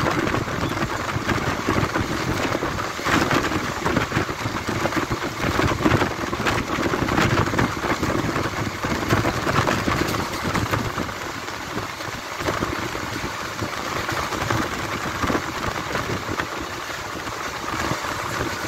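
Passenger train running at speed, heard from an open coach doorway: a steady rumble and rattle of steel wheels on the rails, with many sharp clicks.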